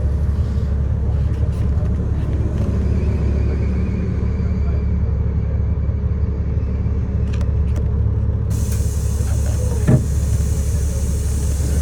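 City bus running, heard from inside the cabin as a steady low engine and road drone. A steady hiss starts suddenly about two-thirds of the way in, and there is a single knock near the end.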